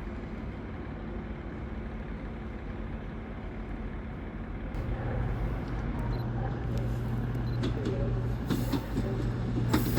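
A train moving at a station: a steady low hum starts about five seconds in and grows louder, with scattered sharp clicks from the wheels on the rails near the end.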